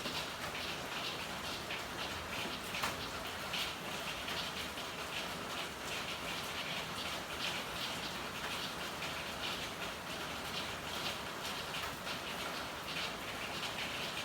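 Steady rain with a dense, irregular patter of drops, and one sharper drop striking a little under three seconds in.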